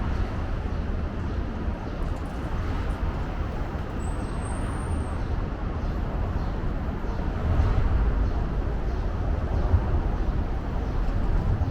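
Steady low rumble of urban road traffic with a brief faint high squeal about four seconds in.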